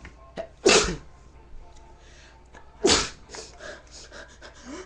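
A person sneezing twice, two short loud bursts about two seconds apart.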